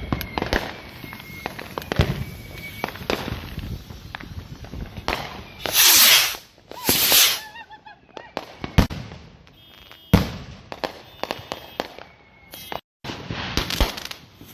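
Consumer fireworks going off: a run of sharp pops and crackles, two loud hissing bursts about six and seven seconds in, and single louder bangs a few seconds later.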